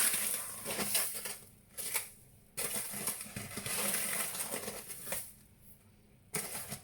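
Granulated sugar being poured into a mixing bowl on kitchen scales, a gritty rustling hiss in three runs with short pauses between them.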